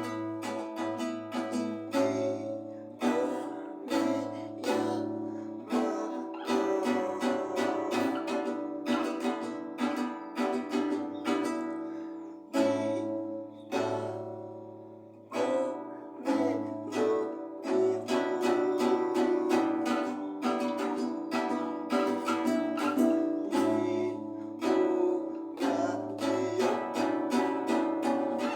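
Music played on a plucked string instrument like a guitar: a run of picked and strummed notes, dipping briefly about halfway through.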